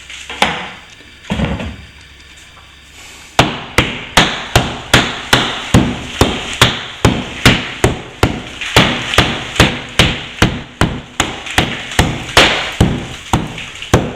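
Hammer striking in a steady run of sharp blows, about two to three a second, starting about three seconds in, as plaster is knocked out along a crack to open it up for repair.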